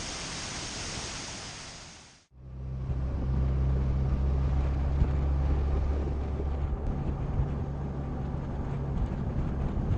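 Waterfall rushing as a steady hiss, fading out about two seconds in. Then a Yamaha FJR sport-touring motorcycle's inline-four engine runs with a steady low drone while riding, with wind noise over it.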